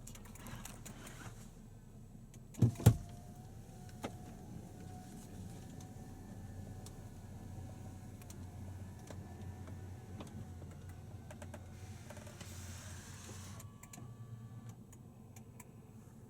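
An electric motor on a power-operated part of a Land Rover Discovery runs with a steady whine for about nine seconds, ending in a short hiss. Two sharp knocks come just before it starts.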